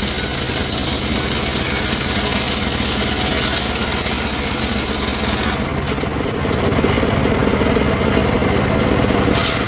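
Engine of a wood saw running steadily, with a high hiss of the blade cutting through wood for the first five and a half seconds and again just before the end.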